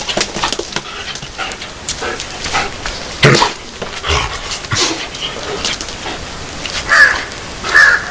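A dog barking in short, loud outbursts, with two loud barks near the end.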